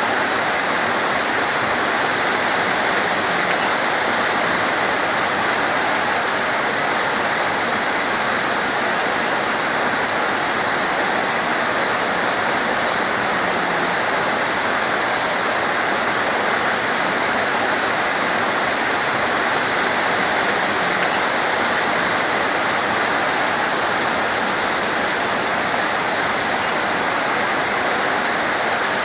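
Heavy, torrential rain pouring steadily, a dense, even hiss with no let-up.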